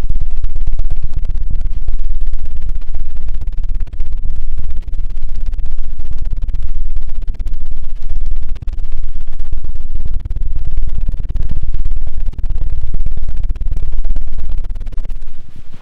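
ASMR 'helicopter' ear-cleaning sound made right on the microphone: a loud, fast fluttering rumble. It is near-continuous at first, then comes in bursts of about a second each, and fades away near the end.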